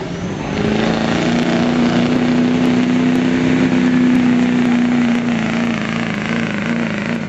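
Duramax diesel pickup engine running flat out under load as the truck drags the pulling sled, a steady high drone. The pitch climbs a little in the first second, holds, then wavers near the end and drops away as the pull ends.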